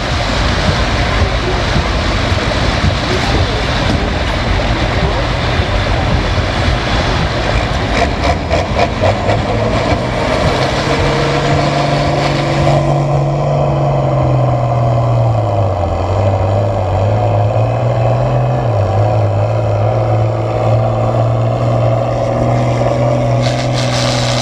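International Harvester 966 pulling tractor's engine running at full power under load as it drags the pulling sled, with a dense clatter over it. About halfway through the noise thins out to a steadier, lower engine tone that dips and rises once, then holds. This is the tractor losing its pull and the run coming to an end.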